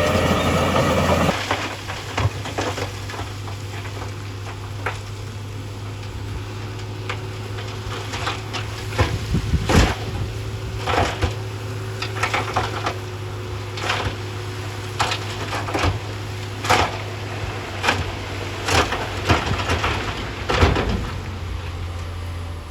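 Heavy construction machine's diesel engine running steadily, louder for about the first second, under many irregular sharp knocks and cracks of rocks tumbling and striking one another.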